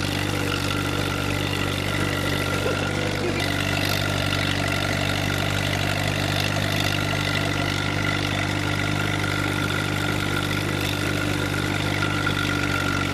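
Vehicle engine running steadily at an even speed, its note unchanging throughout.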